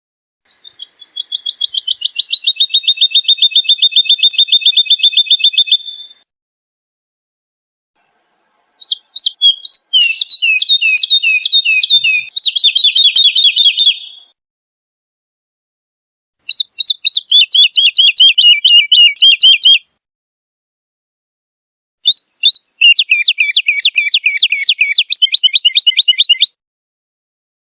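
Woodlark singing: four phrases of fast repeated notes, each lasting about three to six seconds with short silent pauses between them. The first phrase settles quickly into a steady, even trill; the later ones are made of quicker, more varied notes.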